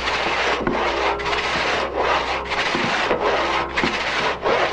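Two-man long rip saw (Dielsäge, a pit saw) cutting lengthwise along the grain through a squared oak log. Rasping strokes come in a steady rhythm, a little under two a second.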